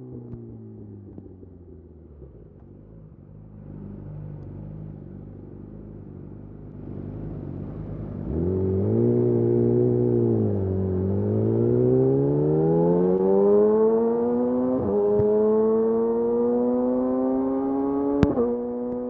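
Yamaha YZF R6's inline-four through a de-catted Akrapovic slip-on exhaust. The engine note falls and stays low for several seconds off the throttle, then the throttle opens about eight seconds in. After a brief dip the revs climb steadily through two upshifts, the last marked by a sharp click.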